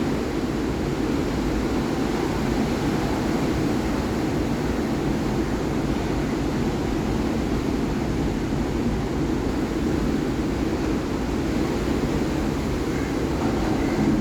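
Sea waves: a steady, even rumble of surf with no single break standing out.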